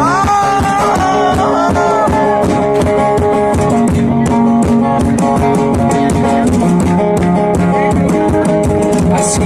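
Live band music in an instrumental passage: guitar playing sustained chords over a steady percussion beat, with a few bending lead notes in the first two seconds.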